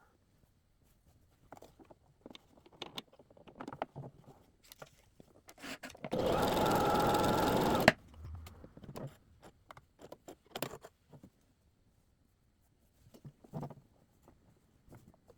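Brother JV1400 sewing machine running for about two seconds, stitching a short run, and stopping with a click. Light clicks and knocks come before and after it.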